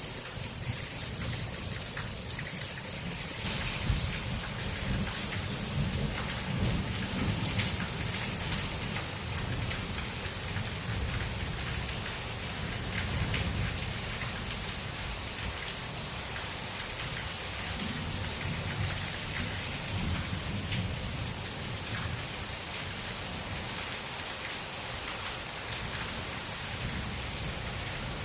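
Heavy thunderstorm rain falling steadily, with a low, uneven rumble of thunder underneath. The hiss of the rain grows louder about three and a half seconds in.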